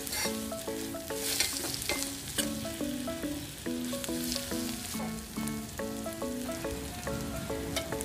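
Onion and egg filling sizzling in an aluminium pan on the stove as it is stirred with a metal spoon, with short scrapes and clicks of the spoon against the pan. A simple melody of held notes plays underneath.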